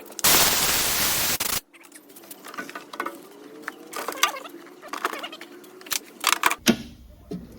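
A loud, steady blast of compressed-air hiss lasting about a second and a half, cut off sharply. Scattered clicks and clinks of metal tools being handled follow it.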